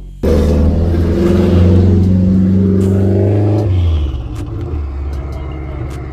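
A drift car's engine held at high revs under hard throttle, cutting in suddenly and running loud for about three and a half seconds, then dropping back off throttle to a lower, rougher running sound with a few sharp clicks.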